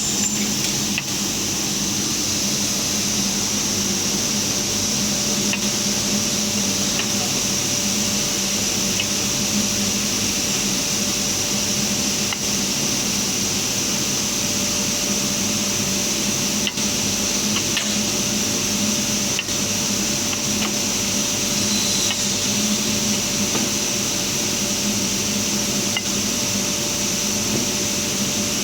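CNC glass cutting machine running: a steady mechanical hum and hiss with a constant tone, broken by a few faint clicks.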